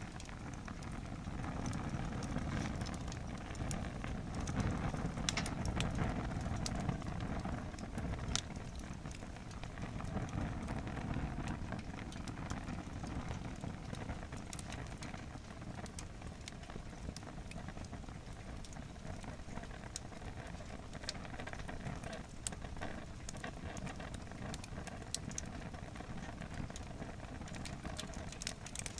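Wood fire in a fire pit stand burning hard: a steady low rush of flame with scattered sharp crackles and pops from the burning logs.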